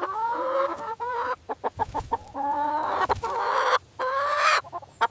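Chicken calling: two drawn-out calls with a run of short, sharp clucks between them.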